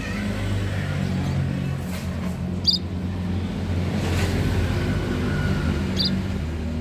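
A motor vehicle engine running steadily, with two short high chirps from munias about three and six seconds in.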